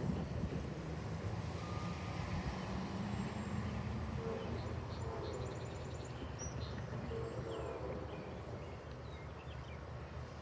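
Freight train rumbling low and steady, easing off a little toward the end, with faint bird chirps in the middle.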